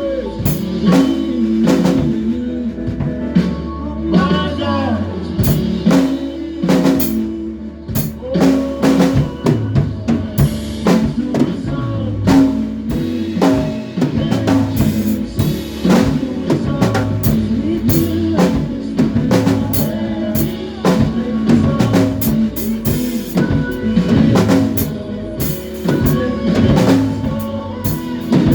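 A live band playing an instrumental stretch of a worship song: drum kit keeping a steady beat with kick and snare under held chords and a moving bass line.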